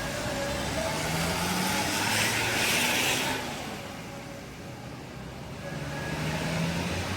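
Motor vehicles driving by with their engines revving up twice, and a louder rush of noise about two to three seconds in as one passes close.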